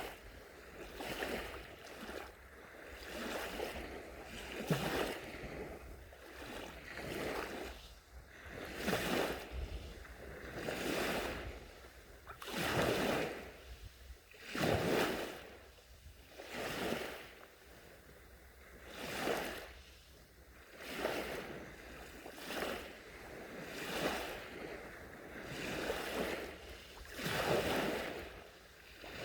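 Small, gentle sea waves washing onto the shore, a swell of surf hiss rising and falling about every two seconds.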